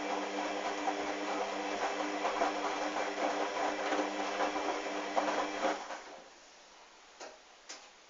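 Hoover washing machine's motor turning the drum through a wash: a steady motor hum with the wet, sudsy towel load splashing and tumbling. The motor winds down and stops about six seconds in, a pause between tumbles, followed by two faint clicks.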